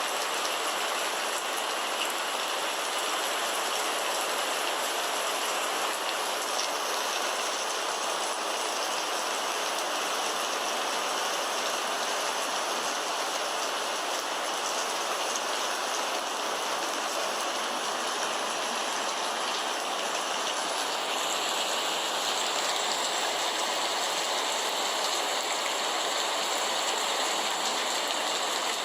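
Steady rain falling, an even, continuous hiss of drops, turning slightly hissier a little over two-thirds of the way through.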